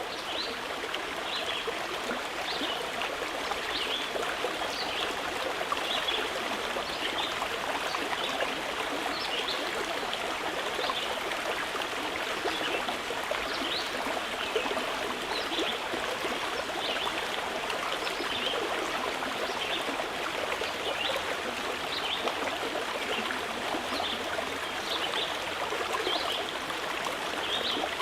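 Mountain river flowing steadily over rocks, with small birds chirping in short high calls throughout.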